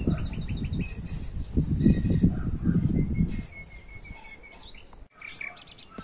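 Small birds chirping, with a quick run of short repeated chirps in the middle. For the first half a louder, uneven low rumble of wind on the microphone sits under them, and about five seconds in the sound breaks off abruptly for an instant.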